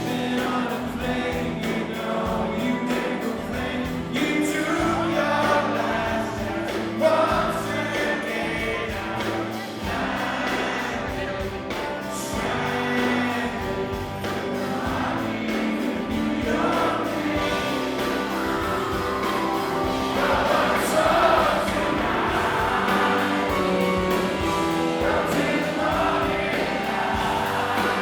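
A rock band playing a song live, with many voices singing together over it: a large audience singing along.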